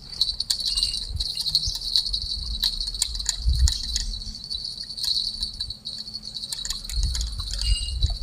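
Steady, high-pitched insect chorus with a fast pulse, joined by scattered light clicks and knocks and an uneven low rumble.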